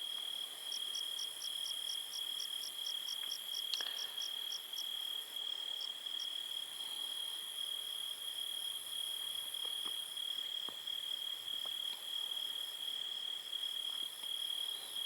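Crickets chirping in chorus: a steady high trill with a faster pulsed chirping at about five pulses a second over it, which grows fainter after about five seconds.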